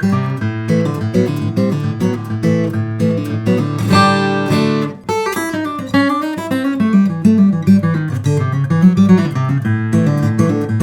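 Steel-string acoustic guitar played fingerstyle: picked melody notes over a bass line, with a chord left ringing about four seconds in and a brief drop in level just after.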